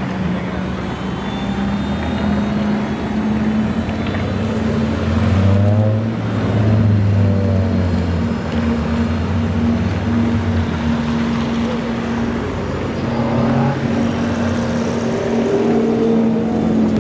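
Car engine running steadily, with the engine note swelling and sweeping up and down briefly around six seconds in.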